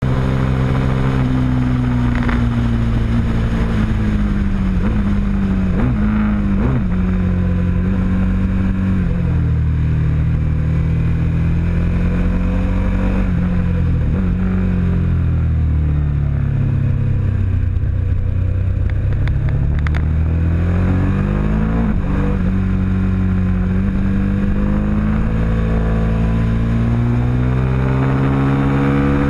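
Ducati 899 Panigale's Superquadro V-twin, heard from the bike itself, being ridden hard round a circuit. Its note rises and falls through acceleration, gear changes and braking, sinking lowest around the middle and climbing steadily again near the end.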